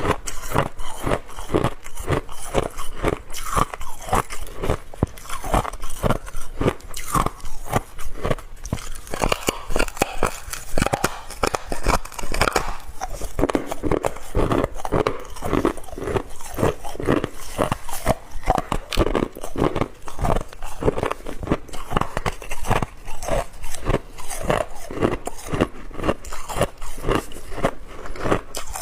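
Hard ice being bitten and chewed close to the microphone: continuous crunching made of many rapid sharp cracks.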